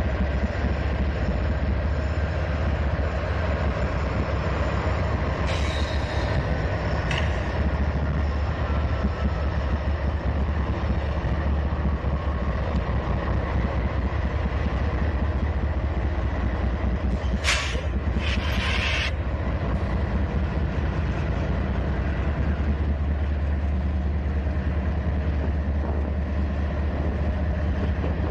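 Union Pacific and BNSF diesel-electric locomotives rolling slowly past at the head of a long intermodal freight train, with a steady low engine rumble. Short high-pitched bursts come twice, about six and about seventeen seconds in.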